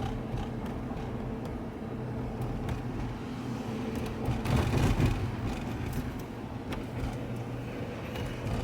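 Car driving on a town street, a steady engine and road hum heard from inside the car, with a louder swell about halfway through.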